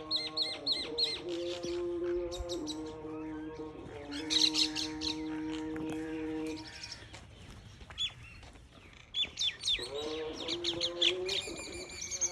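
Birds squabbling, giving quick, high, downward-sliding chirps and squawks in several rapid bursts. Under them runs a slow held musical tone that steps to a new pitch now and then and drops out for a few seconds in the middle.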